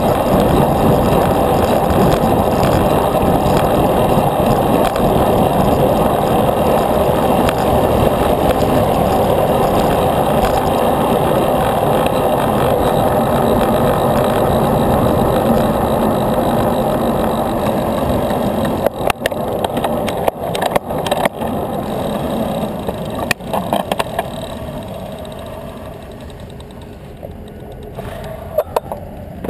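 Wind and road noise from a moving bicycle, a loud steady rush. From about two-thirds of the way in it eases and gets quieter, broken by sharp clicks and rattles.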